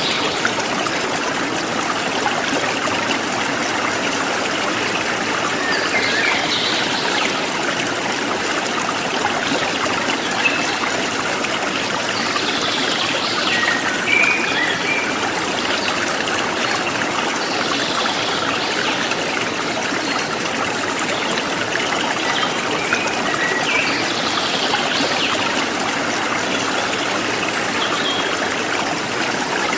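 A forest stream flowing steadily, with short bird chirps coming in every few seconds.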